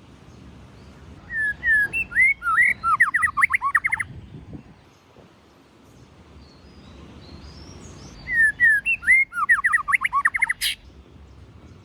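White-rumped shama singing two song phrases several seconds apart, each opening with a few clear whistled notes and breaking into a fast run of quick sweeping notes; the second phrase ends with a sharp click.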